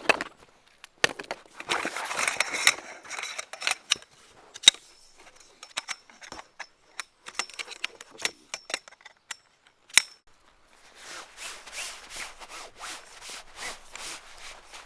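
Rustling, scraping and handling noises with a few sharp clicks, then footsteps on dry ground near the end, about two steps a second.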